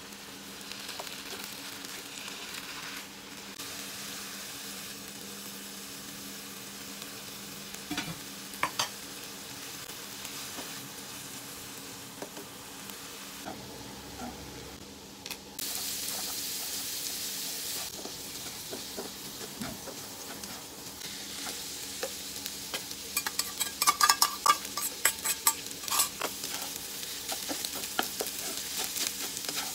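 Food sizzling in oil in a nonstick wok while a plastic spatula stirs and scrapes. A louder, brighter sizzle starts about halfway through, with garlic frying in the oil. Near the end a quick run of sharp spatula clacks against the pan comes as fried rice is stirred.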